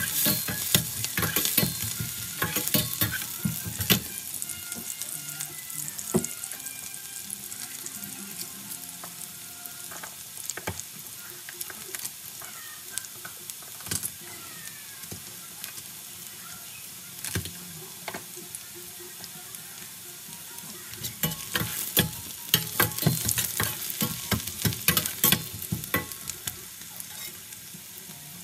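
Chopped onion and garlic sizzling in hot oil in a stainless steel pan while a metal spatula scrapes and stirs them against the pan. The stirring is busiest in the first few seconds and again over the last several seconds. In between there is a quieter, steady sizzle with scattered pops.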